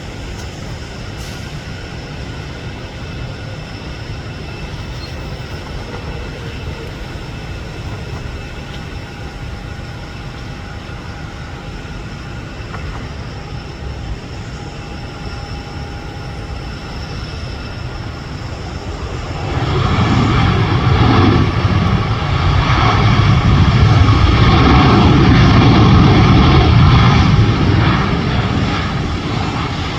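Boeing 737 jet engines running steadily with a whine. About two-thirds of the way through, the engine noise swells much louder for several seconds and then eases, typical of reverse thrust on the rollout after touchdown.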